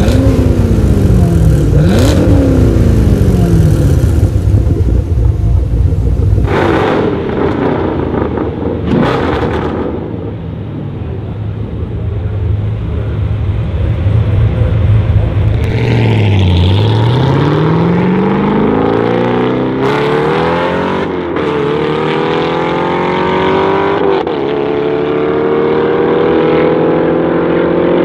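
Chevrolet Camaro SS 6.2-litre V8 revved hard several times in quick succession through a loud exhaust. Later, a hard V8 acceleration run: the engine note climbs steadily, with short breaks at the gear changes.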